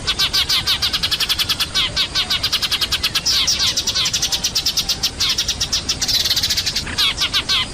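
Eurasian tree sparrows chirping noisily in a flock, rapid chirps several a second, with a denser burst of chattering about six seconds in. This is a sparrow lure call, played to bring the birds down.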